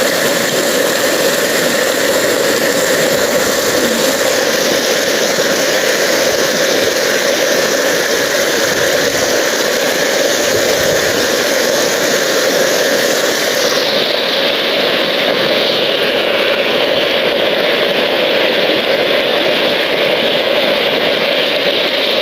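Floodwater rushing steadily through a channel, a constant loud rush of noise; the highest hiss dulls a little about fourteen seconds in.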